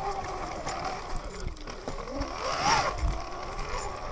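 Sur-Ron electric dirt bike's motor whining while riding, its pitch wavering and then rising sharply and falling back once about two and a half seconds in, with a few knocks from the bike over rough ground.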